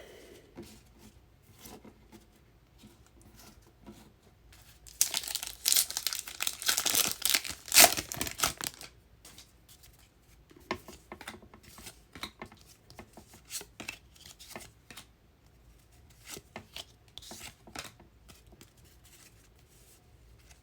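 A trading card pack's wrapper is torn open with a loud crinkling rip lasting about four seconds, starting about five seconds in. Afterwards come scattered light clicks and slides as the cards are handled and sorted.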